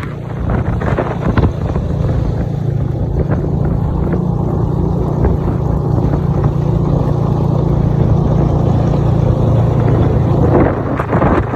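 Snowmobile engine running steadily on the move, a constant low hum, with wind buffeting the microphone.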